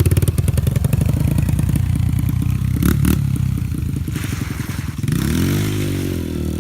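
2004 Yamaha TT-R125 dirt bike's single-cylinder four-stroke engine running as the bike is put in gear and pulls away. There are a couple of sharp clicks about three seconds in. From about five seconds in, the engine revs up and then eases off.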